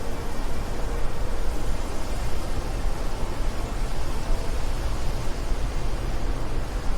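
Steady wind noise: a low rumble with a hiss above it.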